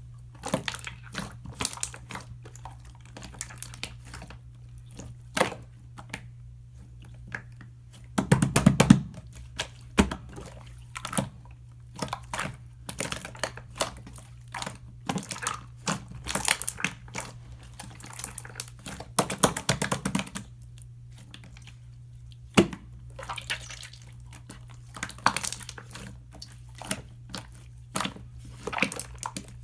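Slime being pressed, folded and squished by hand, giving many small sticky clicks and wet pops. There are two louder bursts of squishing, about eight seconds in and around nineteen seconds in.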